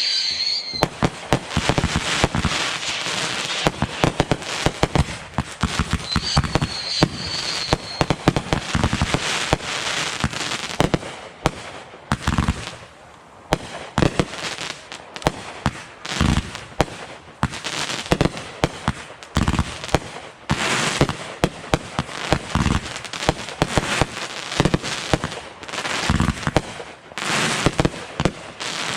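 Fireworks and firecrackers going off in quick, dense succession: a near-continuous string of sharp bangs and crackling, with a short lull about halfway through and a brief high whistle about six seconds in.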